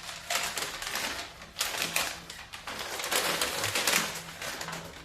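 A mailed envelope and its packaging being handled and opened by hand: irregular rustling and crinkling with quick clicks.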